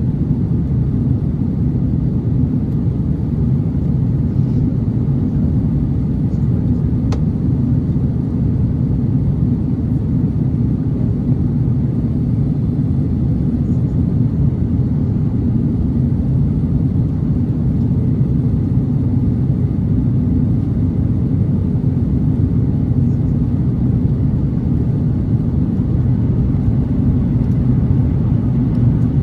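Steady, low cabin rumble of an Airbus A330-900neo in flight: the engine and airflow noise heard from inside the passenger cabin, even and unchanging throughout.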